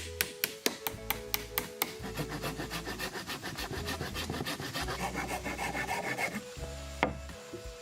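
Hand tool rasping on wood in quick, even strokes, about six a second, preceded by a run of sharp taps over the first two seconds. Background music plays underneath.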